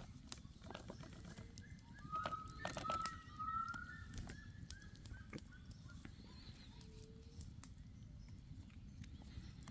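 Birds calling with short whistled and slightly rising notes, busiest a few seconds in, over scattered sharp clicks.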